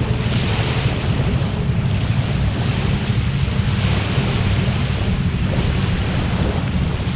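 Wood fire burning in a Coleman Fire Disc fire pit: a steady low rumble mixed with wind noise on the microphone, with no distinct crackles. A constant high whine runs through it.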